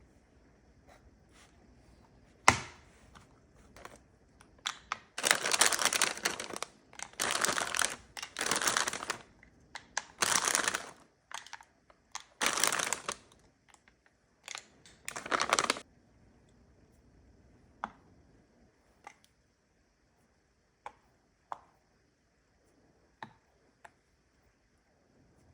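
Plastic packaging crinkling in several bursts, each about a second long, with a sharp knock beforehand and scattered light clicks and taps afterwards.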